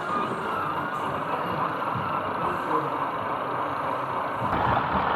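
Model train running on an exhibition layout: a steady mechanical running noise that grows louder about four and a half seconds in.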